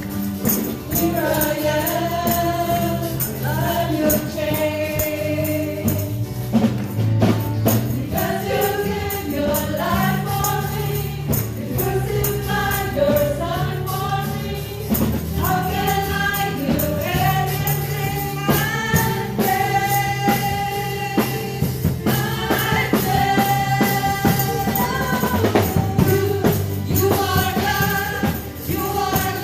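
Gospel worship song: a group of voices singing a melody over bass and instruments, with percussion keeping a steady beat.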